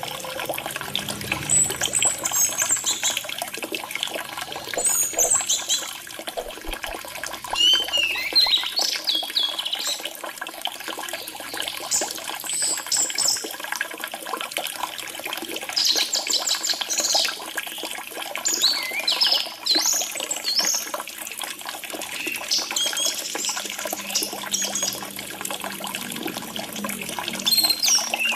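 Orange-headed thrush singing short, high phrases every few seconds over the steady trickle of running water.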